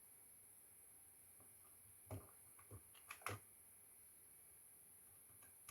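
Near silence, broken by four short, soft clicks or knocks about two to three and a half seconds in, the last the loudest.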